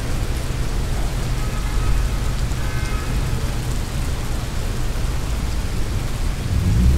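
Steady, heavy rain falling, with a low rumble underneath.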